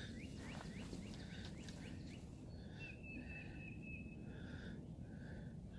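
Birds singing over a faint low outdoor rumble: a run of short rising chirps, then a repeated pulsing phrase with a thin high held note through the middle.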